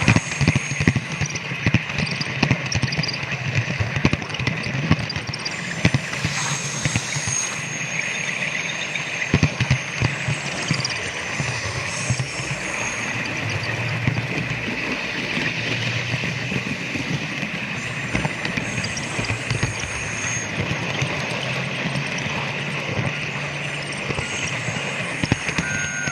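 Model train running on its track: a steady running noise dense with irregular clicks from the wheels and rail joints, under a low hum of a recorded electric-train motor sound from the onboard sound car.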